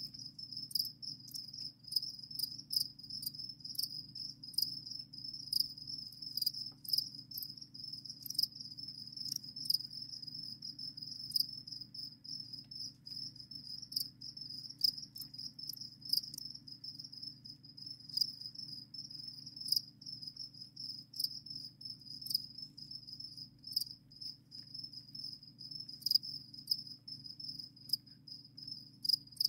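Crickets chirping continuously, a steady high-pitched trill dotted with frequent sharp ticks, over a faint steady low hum.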